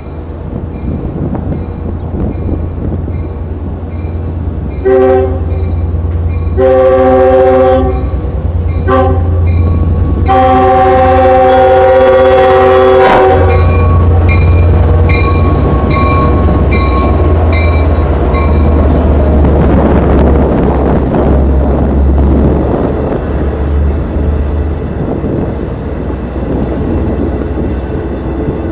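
Long Island Rail Road diesel train sounding its horn for a level crossing in four blasts, the last held for about three seconds, over the steady ringing of the crossing bells. The train then rumbles slowly through the crossing, its engine humming low, the rumble building and then easing off near the end.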